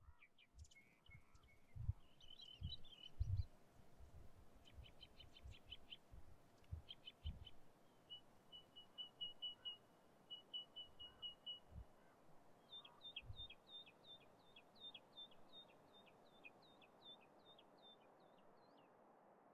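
Faint bird calls: series of short high chirps and quick trills, then a steady run of hooked chirps about two a second. Low thumps, the loudest sounds, come several times in the first half and twice more later.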